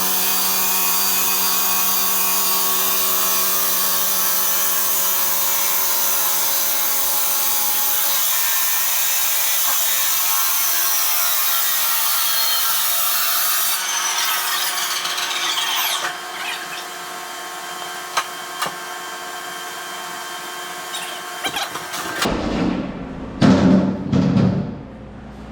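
Power saw cutting into a brick and block wall, running loud and steady at high speed, then winding down with a falling whine after about fourteen seconds. Scattered knocks follow, and near the end a low rumble with a few loud thumps.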